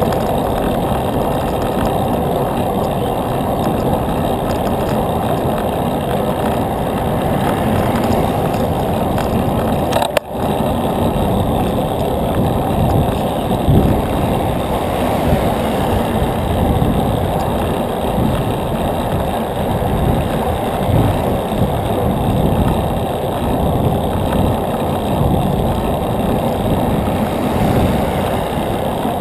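Steady rushing noise of riding a bicycle, wind and road noise on the microphone, with a brief dropout about ten seconds in.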